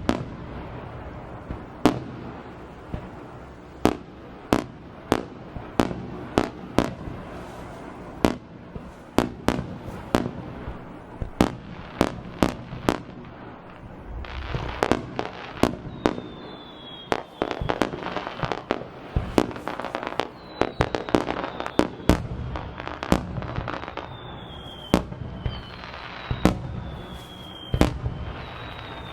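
Fireworks display: aerial shells bursting in a quick irregular series of bangs, with a stretch of dense crackling about halfway through and several short falling whistles over the bursts.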